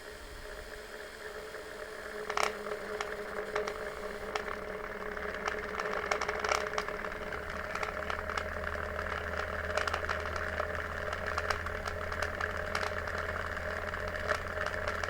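Citroën C4 impeller fan starting up and running, its hum and whir building over the first few seconds. Irregular ticking and scraping clicks run over it, as if something is catching on the fan, even though the impeller turns freely.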